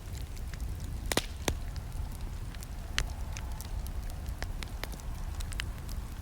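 Wood fire burning with a steady low rumble and irregular crackles and snaps, a few louder pops about a second in and near the middle.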